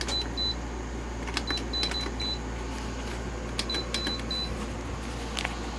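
Electronic control panel of an LG window air conditioner beeping as its buttons are pressed to switch it on: short high beeps in three quick runs, with clicks of the keys, over a steady low hum.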